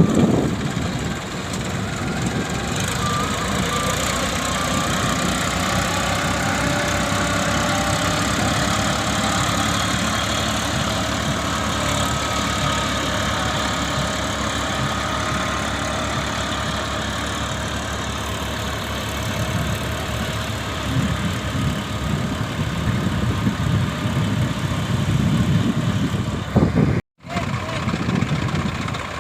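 An engine running steadily, with a low, even pulse, and people's voices behind it. The sound cuts out for a moment near the end.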